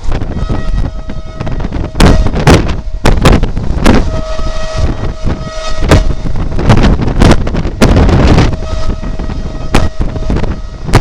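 A train passing, with heavy wind buffeting the microphone and many irregular sharp knocks. A steady tone with overtones comes and goes three times.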